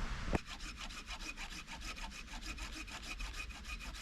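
Hand saw cutting through firewood in quick, even back-and-forth strokes, several a second, starting about half a second in.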